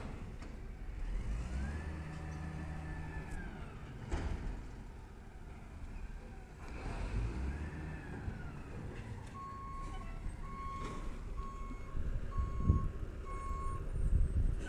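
Garbage truck's engine running with a whine that rises, holds and falls a few times, then its backup alarm beeping five times, about once a second, as the truck reverses.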